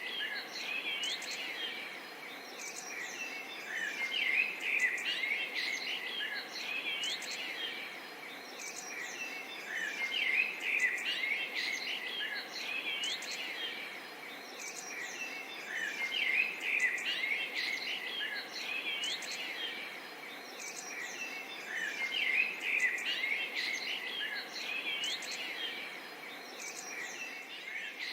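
Wild birds chirping and calling, many short rising and falling chirps over a steady background hiss of forest ambience. The chirping thickens and thins in waves about every six seconds.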